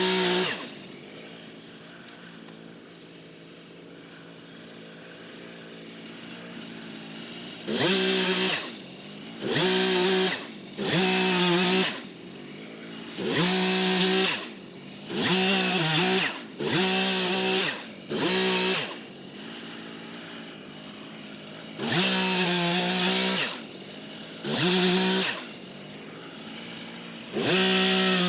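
Gas chainsaw idling, then revved hard in about ten short bursts of about a second each, the pitch climbing with each rev before dropping back to idle. The first seven seconds are idle only.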